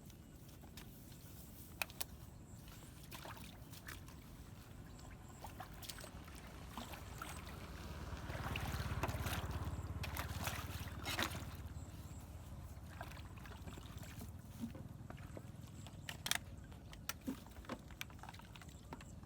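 Water sloshing and gurgling, swelling to a louder rush about eight to eleven seconds in, with scattered sharp clicks and knocks.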